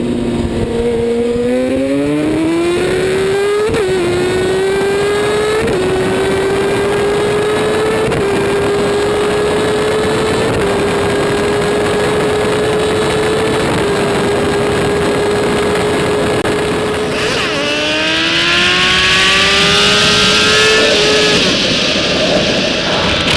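High-revving sportbike engine accelerating hard, its note climbing and stepping through about five quick upshifts. About three-quarters of the way in, a second hard run-up starts lower and climbs again under a loud rush of wind.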